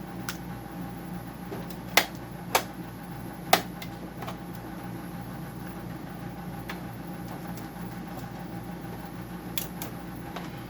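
Sharp clicks and clacks of parts and tools being handled while taking apart a dehumidifier's control box, three loud ones close together about two to three and a half seconds in and fainter ones scattered after. A steady machine hum like a running fan sits under them.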